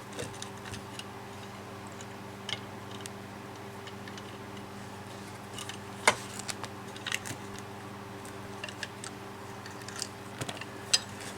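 Scattered light clicks and clinks of metal hand tools and sockets being handled, the sharpest about six seconds in, over a steady low hum.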